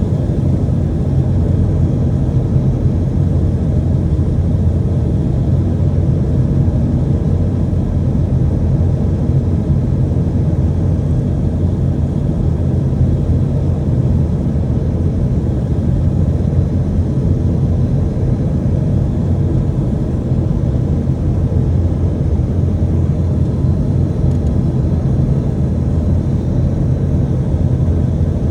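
Steady low rumble inside the cabin of an Airbus A320-212 airliner: its CFM56 engines and the airflow around the fuselage, heard from a window seat, with no sudden change.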